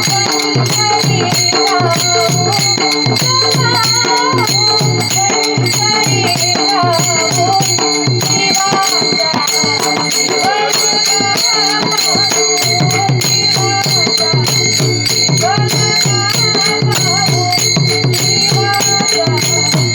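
Marathi abhang, a devotional song: a girl's singing voice over a steady drum beat, with cymbals ringing throughout.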